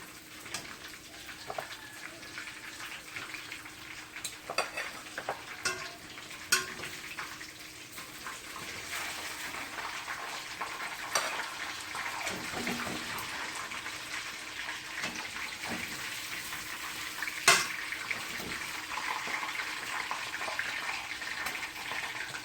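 Flour-coated chicken deep-frying in hot oil, a steady sizzle that grows louder partway through. Several sharp metal clinks of a utensil against the pot as pieces are lifted out, the loudest one near the end.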